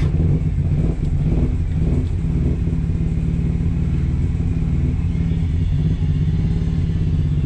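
Daihatsu Mira Turbo's 660cc three-cylinder engine idling just after starting, running on two cylinders. The owner suspects a dirty spark plug is causing the misfire.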